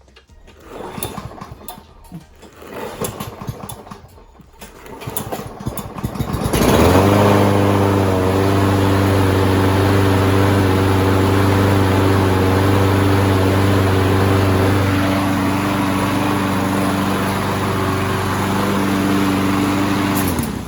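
Kohler Courage XT7 single-cylinder lawnmower engine cranked over with its air filter and cover refitted; it catches about six and a half seconds in, runs at a steady even speed, and is shut off abruptly near the end.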